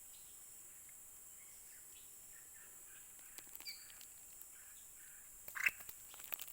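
Outdoor ambience: a steady high insect buzz with a few faint bird chirps, and a short cluster of rustling clicks near the end.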